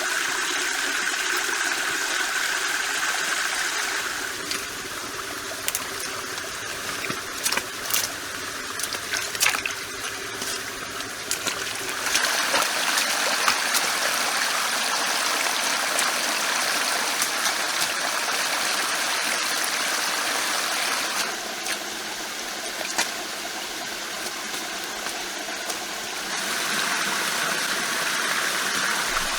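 Flowing stream water running and trickling steadily, with a scattering of sharp clicks and snaps a few seconds in.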